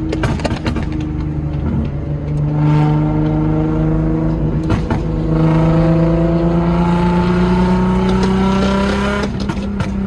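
Nissan 350Z's 3.5-litre V6 engine under way as the car accelerates, its note climbing slowly and steadily in pitch.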